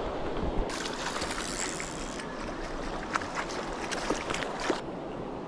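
Water splashing as a rainbow trout is drawn into a landing net, with a run of small splashes and clicks for about four seconds, over the steady rush of the river.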